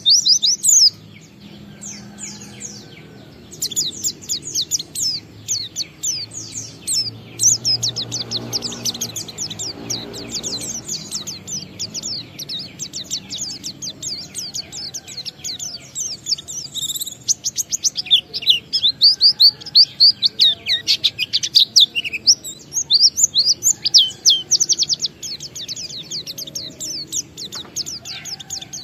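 A pleci (white-eye) singing its long, continuous ngalas song: a fast, unbroken stream of high twittering and chirping notes. After a brief lull near the start the song is steady, and the densest and loudest stretch comes past the middle.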